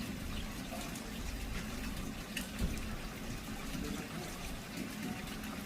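Rain falling, with a steady run of water and scattered drips, and one louder tap about two and a half seconds in.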